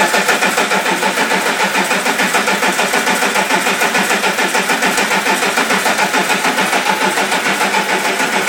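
Starter motor cranking a Caterpillar 14-litre diesel engine at full compression, with a steady rhythmic pulse of about six beats a second as each cylinder comes up on compression. The starter is powered by a lithium-ion battery module under a cranking test.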